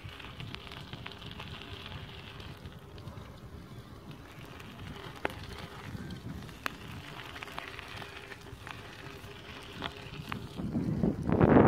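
Bicycle rolling along a path: steady crackling tyre noise with scattered clicks. A gust of wind buffets the microphone near the end.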